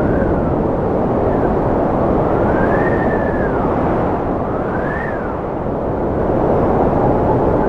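Strong cold wind blowing steadily, a deep rush with a thin whistle that rises and falls back three times.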